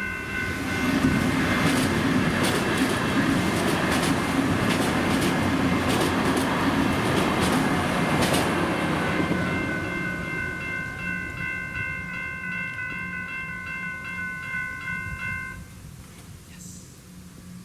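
A train passing over a level crossing, its wheels clacking over the rail joints, loudest in the first ten seconds and then fading away. The crossing's General Signals electronic bells ring through it and stop about fifteen seconds in as the crossing deactivates.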